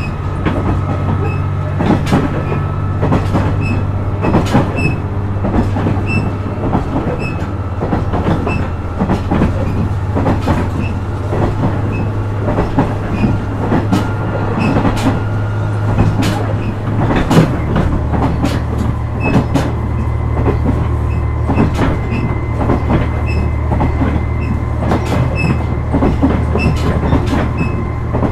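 JR West KiHa 126 series diesel railcar running: the underfloor diesel engine's steady low drone with frequent rhythmic clacks of the wheels over rail joints. The engine note changes about seventeen seconds in.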